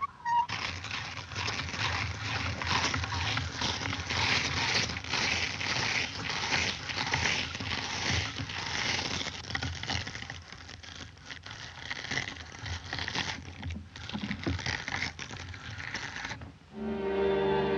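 Cartoon sound-effect track: a dense, hissing clatter of many small clicks, which stops abruptly near the end as orchestral music with a flute comes in.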